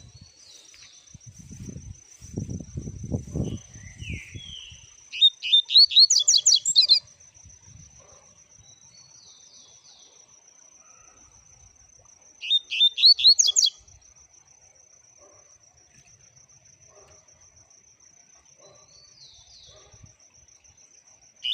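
A caged seedeater sings two loud, rapid phrases of about two seconds each, with short single chirps in between. A steady, high, pulsing trill runs underneath, and there are soft low knocks in the first few seconds.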